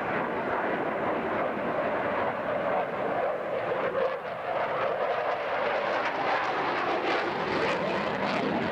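Airplane engine noise: a steady rushing roar of a fixed-wing aircraft flying at an air show, holding through the whole stretch.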